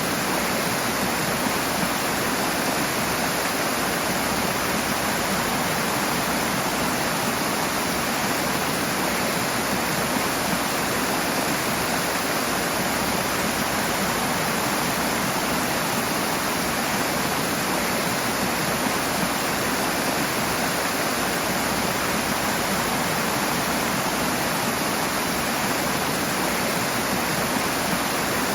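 Rushing water, a fast stream or small waterfall, pouring in a steady, unbroken rush.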